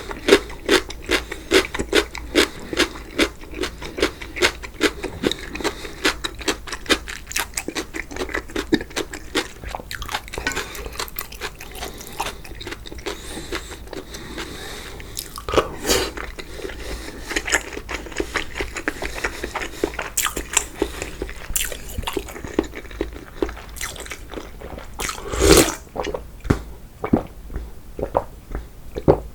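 A person chewing spicy naengmyeon (cold noodles) topped with seasoned pollock, close to the microphone: a fast, continuous run of crunching and smacking, with a few louder bites or slurps partway through and near the end.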